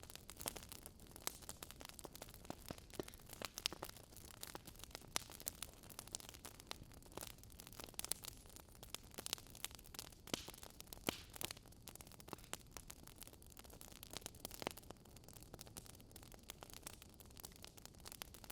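Burning logs in a wood fire crackling quietly: irregular sharp snaps and pops over a soft steady hiss.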